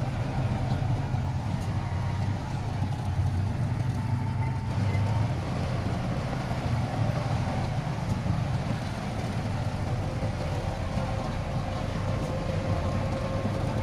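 Heavy earthmoving machinery's diesel engine running steadily with a continuous low rumble and a faint whine on top.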